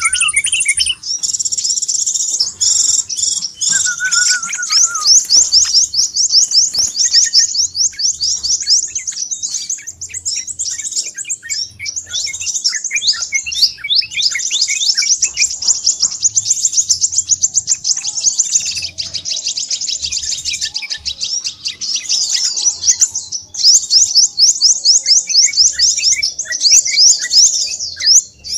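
Crimson sunbird calls: a fast, busy, high-pitched chittering of rapid repeated notes, with hardly a pause.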